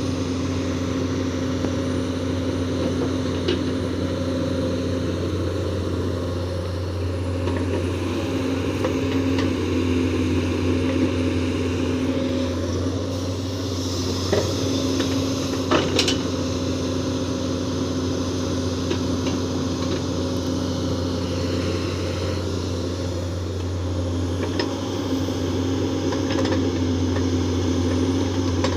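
Komatsu PC210 excavator's diesel engine running steadily under work, with a couple of sharp knocks about halfway through.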